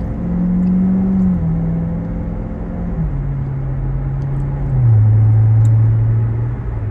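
Chevrolet Corvette Grand Sport's 6.2-litre V8 under way, heard from inside the cabin with its automatic transmission. The engine note holds steady, then drops in pitch in steps three times as the automatic upshifts. It is loudest after the last shift, about five seconds in.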